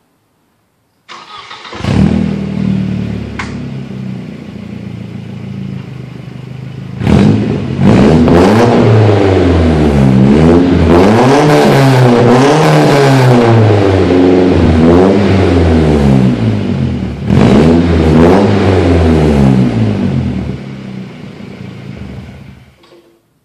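Volvo 245 engine and exhaust starting up and idling, then revved up and down in a series of repeated blips, and shut off near the end.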